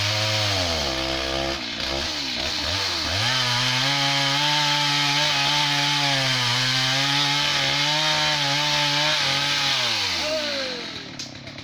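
Two-stroke chainsaw cutting dry wood: the engine dips about two seconds in, then is held at high revs with its pitch wavering under load, and drops back toward idle near the end.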